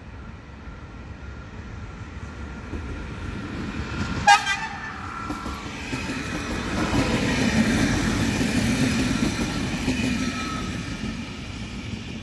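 Passenger train sounding one short horn toot about four seconds in, then passing with a rumble of wheels on the rails that swells, peaks and fades.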